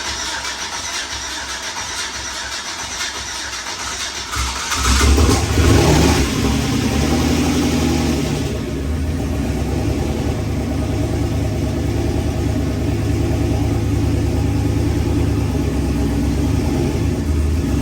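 Freshly assembled aluminum-block 5.3 L LS V8 (LC9) cranking on the starter, catching about five seconds in with a brief rev, then settling into a steady idle on its first start.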